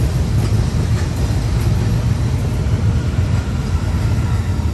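A District line train rumbling across Fulham Railway Bridge: a loud, steady low rumble with a few faint clacks in the first two seconds.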